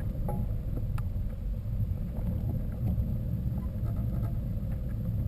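A steady, uneven low rumble with a few faint clicks, such as a camera picks up on a moving mountain bike.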